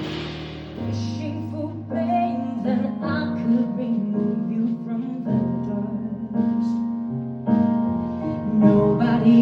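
A live band plays a slow jazz-pop ballad passage led by keyboard chords. The chords are held and change every second or two.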